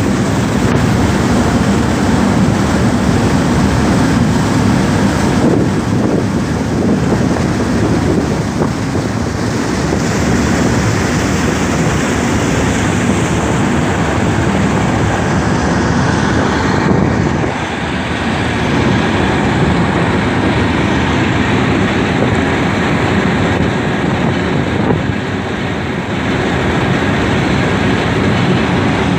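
Engine of a Kostromich motor launch running steadily under way, its low drone mixed with a constant rushing noise.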